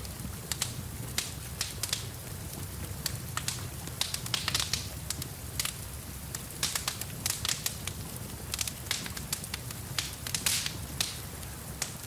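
Wood fire in a fireplace crackling, with irregular sharp pops, several a second and louder bunches around the middle and near the end, over a steady low rumble of the flames.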